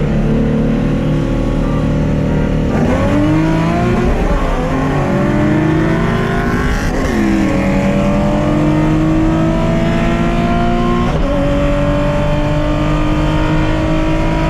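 Nissan 350Z's VQ35DE V6 accelerating at full throttle through the gears, its pitch climbing steadily in each gear and dropping at each upshift, three or four times.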